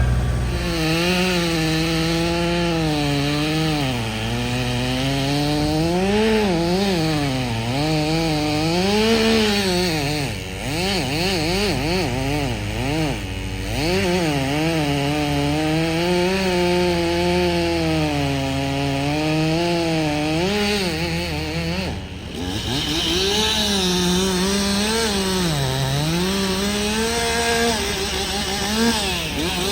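Chainsaw running under load as it cuts wood, its engine pitch sagging and climbing again and again, with a brief let-off about two-thirds of the way through. A low steady hum runs underneath and stops about halfway.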